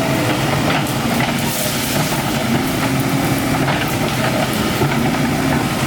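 A motor engine running steadily under a noisy mechanical wash.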